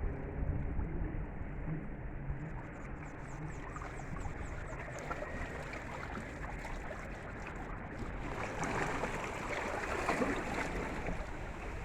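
Sea waves washing onto a beach, a steady wash of surf with a larger wave surging in and breaking about eight seconds in.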